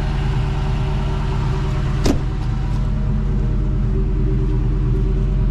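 Car engine idling steadily just after a cold start, with one short sharp click about two seconds in.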